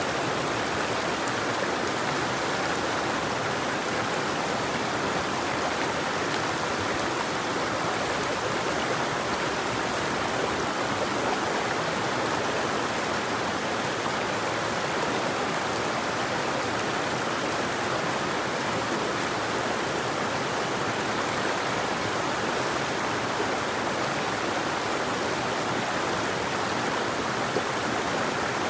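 River water flowing steadily: an even, continuous rushing with no birdsong.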